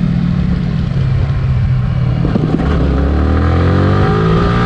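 Yamaha R15 V3's 155 cc single-cylinder engine running steadily, then rising in pitch as the bike accelerates from about two and a half seconds in.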